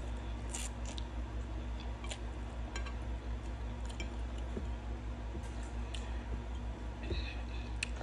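Wet mouth smacks and clicks of someone chewing a mouthful of noodles, coming as scattered short sounds about every second, over a steady low hum.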